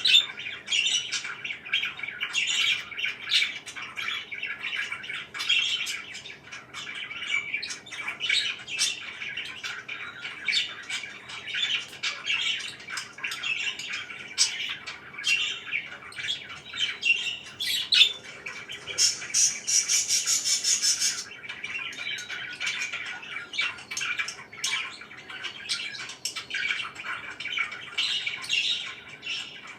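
Pet parakeets chirping and squawking continuously, many short calls overlapping. A harsh, rasping sound lasts about two seconds a little past the middle.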